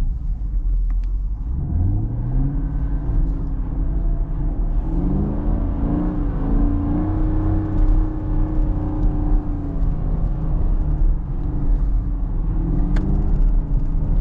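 Chevrolet Camaro's 6.2-litre LT1 V8 revving under throttle while driving in snow: its pitch climbs from about two seconds in, rises and falls several times through the middle, eases off around ten seconds and climbs again near the end.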